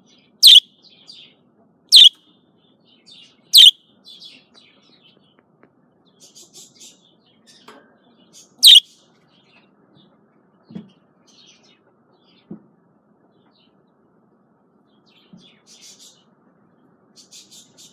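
Female budgerigar calling: four loud, sharp chirps, each falling in pitch, three in the first four seconds and one more about eight and a half seconds in, with soft chattering between and near the end. A couple of faint low knocks come in the middle.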